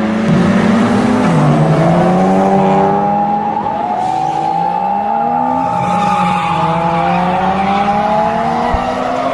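Car sounds: a low engine note that steps and slides in pitch, under several long overlapping tones that glide slowly up and down.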